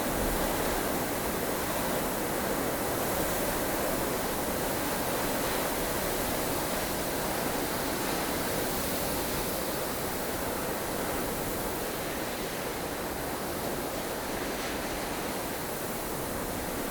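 Blustery snowstorm wind: a steady, dense rush of noise with only slight swells in level.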